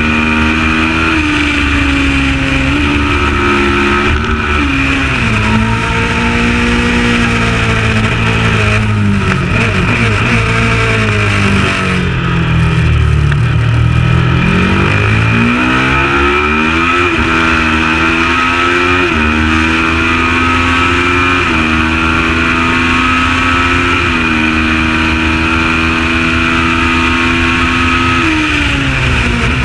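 Kawasaki ER650 parallel-twin race bike engine at full racing pace, revving up through the gears with a sharp drop in pitch at each upshift. About ten seconds in the revs fall away low as it slows for a corner, then it pulls up through the gears again with several quick upshifts.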